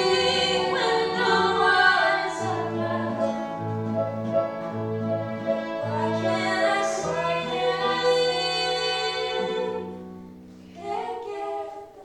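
An ensemble of voices singing sustained notes in harmony over a low, repeated instrumental accompaniment, dying away near the end.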